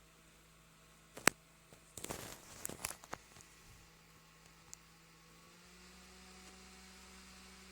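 Small rechargeable desk fan running with a low steady hum, broken by a sharp click about a second in and a cluster of clicks around two to three seconds in. Near the end its hum rises slightly in pitch and level.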